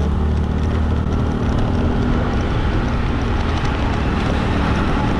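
Motorbike engine running steadily while riding through traffic, with road and wind noise.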